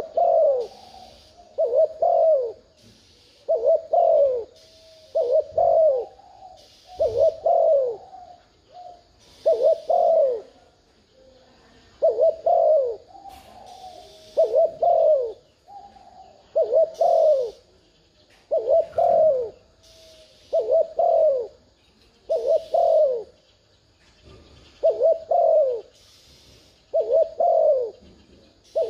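Spotted dove cooing over and over: the same short phrase of a few low, gliding coos, repeated every one and a half to two seconds. This is the excited 'thúc gù' cooing played to set a decoy dove calling.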